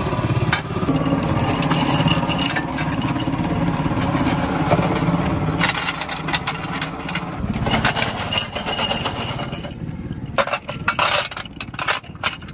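Helicopter running, a steady rapid low chopping from rotor and engine that weakens about seven seconds in, with a few sharp knocks near the end.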